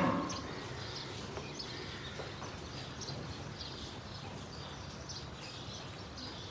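Birds chirping in short, high calls, several a second, over a steady low background hum; a moo from the farm's cattle trails off at the very start.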